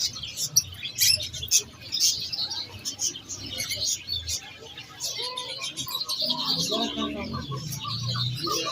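Many small birds chirping and twittering in quick, overlapping calls, with voices murmuring in the background from about halfway through.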